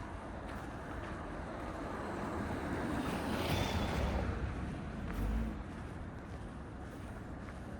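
A vehicle passing along the street: a rushing tyre and road noise that swells to a peak a few seconds in and then fades, over a low rumble of wind on the microphone.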